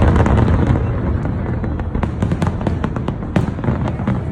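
Fireworks display: a dense, continuous rumble of bursts with many sharp crackling pops, loudest at the start and easing a little after about a second.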